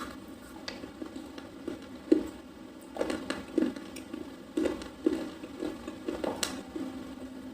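Slate pencil being chewed close to the microphone: irregular crunches, about one or two a second, from a soft, crunchy bar.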